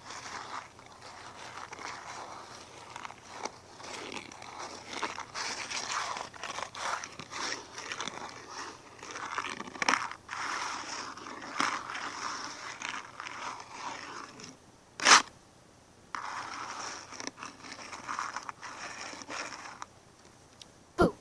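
Close-up crunching and scraping, crackling almost without a break, with a pause of about a second and a half in the middle. Two loud sharp clicks: one in the pause and one at the very end.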